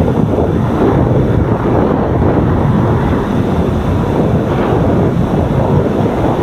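Wind buffeting the microphone of a camera carried on a moving bicycle: a loud, steady rumble that buries other sounds.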